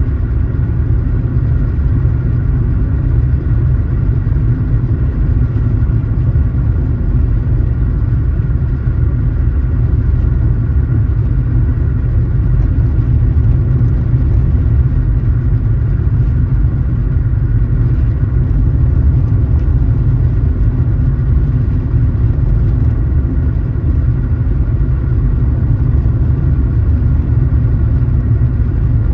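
A car driving at a steady speed: a constant low rumble of engine and road noise that stays even throughout.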